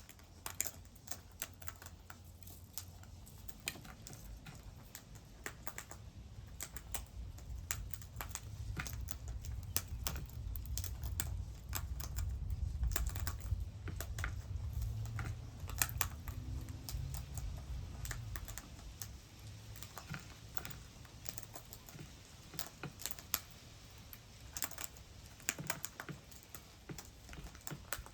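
Rapid, irregular clicking and tapping of birds pecking at seed on a feeder, with a low rumble swelling through the middle.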